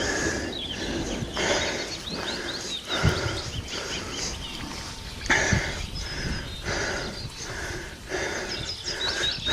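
A person breathing hard and panting on a steep uphill climb, about one heavy breath a second, with small birds chirping.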